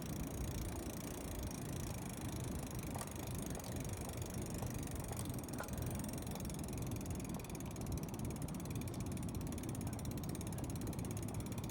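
BMX bike rolling over the wooden planks of a pier, tyres and frame rattling steadily as it bounces, with the rear hub's freewheel ratchet clicking.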